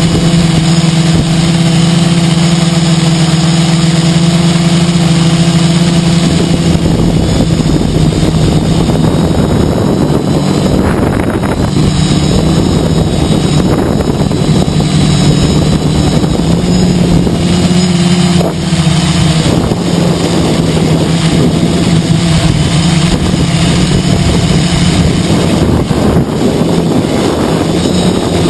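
Quadcopter's four small brushless motors (2212 1000KV) and 10-inch carbon propellers droning steadily, heard from an onboard camera. Strong wind buffets the microphone as a rough rushing noise from about six seconds in, and the motor pitch shifts briefly near the two-thirds mark.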